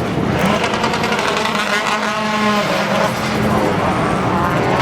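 Touring cars racing past with their engines at high revs; one car's engine note stands out clearly about two seconds in.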